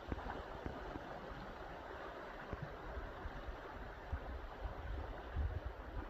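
Rain-swollen stream in flood, its water rushing steadily, with a few low thumps.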